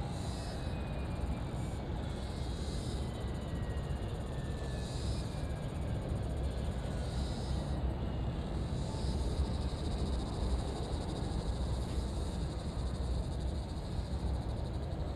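Airplane heard from afar: a steady low rumble with a faint whine slowly falling in pitch as it passes. A soft high chirp repeats about every two seconds.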